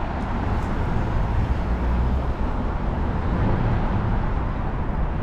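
Steady low rumble of a running vehicle with road or traffic noise.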